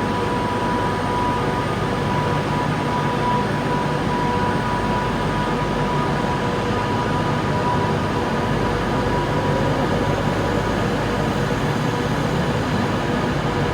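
Train running steadily at close range, a constant rumble with a steady whine over it.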